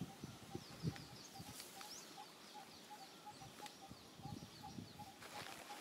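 Faint birdsong: a quick run of high, short falling chirps, about four or five a second, over a steady repeated lower note. Soft low rustling runs underneath, with a couple of sharp scratchy clicks near the end.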